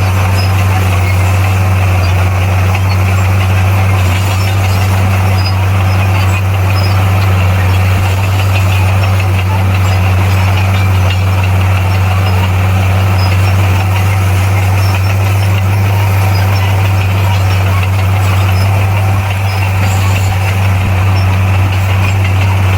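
Komatsu D58P bulldozer's diesel engine running at a steady speed, a loud constant low drone with no revving.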